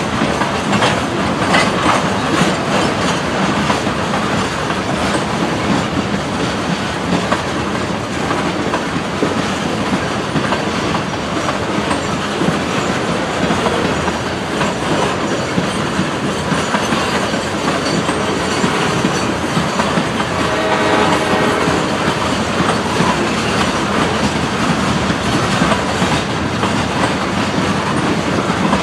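Freight train cars rolling past at close range: a steady rumble of wheels on rail with rhythmic clickety-clack over the rail joints. A faint pitched tone sounds for a couple of seconds about two-thirds of the way through.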